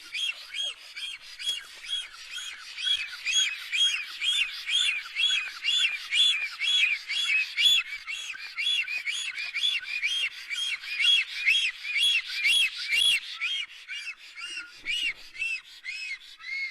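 A bird calling in a long, even series of short whistled notes, about three a second, without a break.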